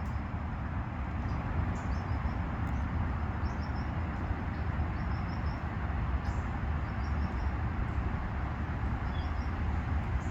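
Small birds chirping in short clusters of quick high notes, several times, over a steady loud rumbling noise.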